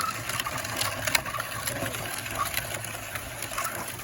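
A child's bike in motion: a steady low mechanical hum with irregular clicks and rattles, the hum stopping near the end.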